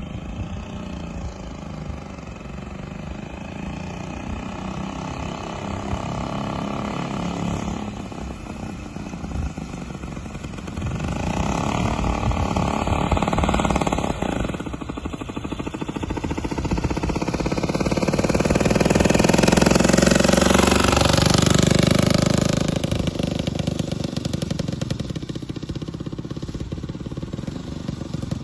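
Engine of a 1921 Train 250cc triporteur running, with the revs and loudness rising about 11 seconds in, then swelling louder around 18 to 22 seconds in before easing back.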